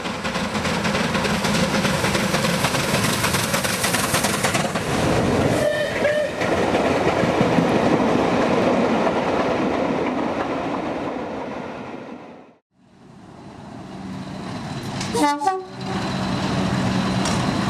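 Passing trains on main-line track: loud running noise of a train going by, with a short pitched warning call about six seconds in. The sound cuts out briefly past the middle, then a second train runs by with another brief warning call.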